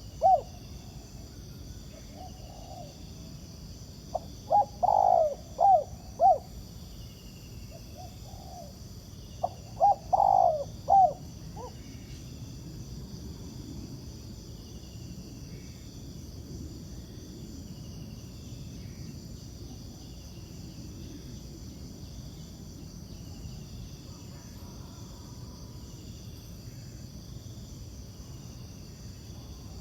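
Spotted dove cooing in three short phrases: one ending just after the start, one about five seconds in and one about ten seconds in. Insects drone steadily in a high pulsing buzz throughout.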